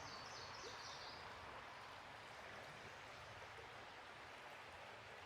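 Faint outdoor ambience: a steady, even hiss, with a short run of high chirps in the first second.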